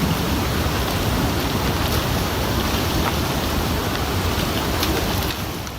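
A river in spate carrying broken ice after an ice dam break, a steady dense rush of water with a few faint ticks, fading out near the end.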